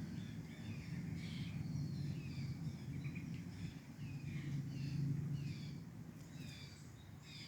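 Small birds chirping in short repeated calls, one or two a second, over a low steady hum.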